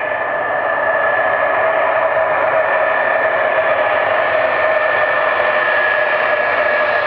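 Aircraft engines running with a steady rushing roar and a held whine, slowly growing louder during a landing approach.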